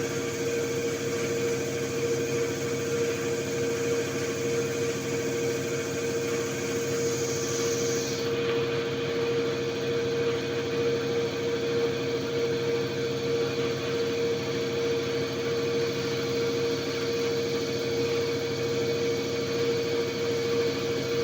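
Diesel common-rail injector test bench running steadily during calibration, its pump pressurising the rail to high pressure: a constant machine drone with a steady whine. A high hiss cuts off suddenly about eight seconds in.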